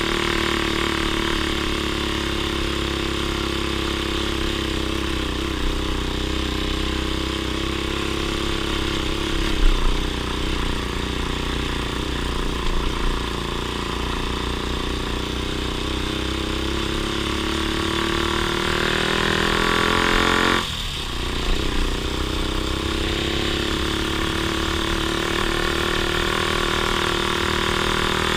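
Off-road vehicle engine running steadily on a trail. About two-thirds of the way through its revs climb for a couple of seconds, then drop suddenly and settle back.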